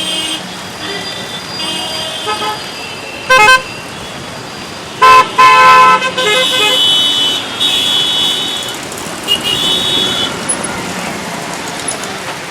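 Road traffic with vehicle horns honking over and over, short toots of several pitches. The loudest blasts come about three and a half seconds in and twice around five to six seconds in.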